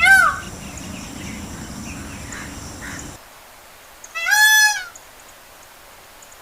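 Peacock calling: two loud, high calls, a short one right at the start and a longer one about four seconds in.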